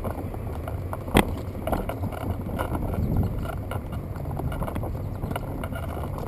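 Baby stroller wheels rolling over a paved path, a steady low rumble, with one sharp clack about a second in.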